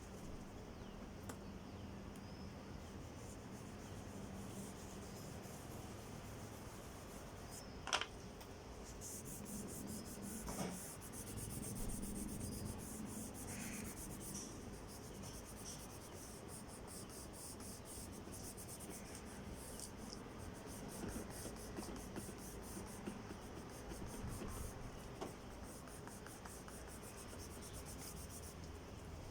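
Oil pastel scratching and rubbing on drawing paper in quick, repeated back-and-forth strokes, from about nine seconds in until just before the end. There is a single sharp tap about eight seconds in.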